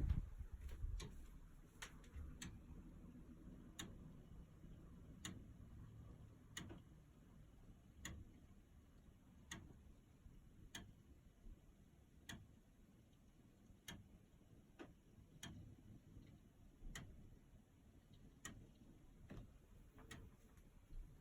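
Drain pipe making sharp, faint ticks, irregularly spaced at roughly one a second, over a low rumble. It is an abnormal noise whose cause is unknown.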